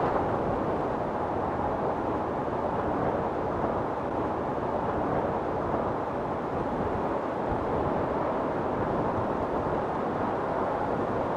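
Storm wind blowing steadily, a dense low rushing sound with only slight rises and falls in strength.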